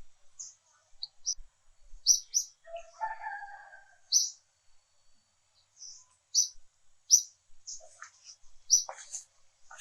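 Birds chirping: many short, high chirps at irregular intervals, with a lower, longer call about three seconds in.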